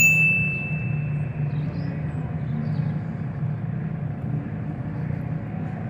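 Engine running steadily with a low, even hum. Right at the start there is a single sharp metallic ding that rings for about a second.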